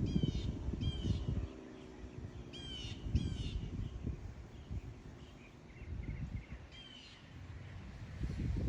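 A bird calling about five times in short calls, a second or a few seconds apart, with wind rumbling on the microphone at the start and again near the end.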